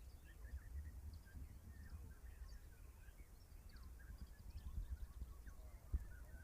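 Many caged songbirds chirping and calling at once, a scatter of short overlapping notes, over a low rumble on the microphone, with one sharp knock about six seconds in.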